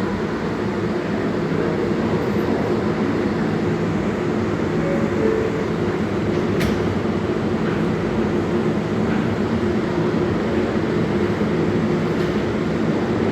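R142A subway train running at a steady pace: a continuous rumble with steady humming tones, and a single sharp click about two-thirds of the way through.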